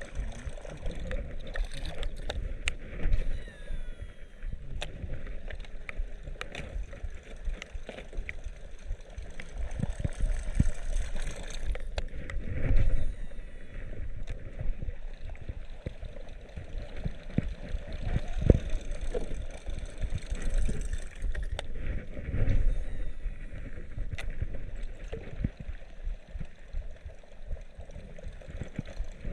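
Water sloshing and gurgling around a small boat, with low rumbling handling noise and scattered knocks against the hull.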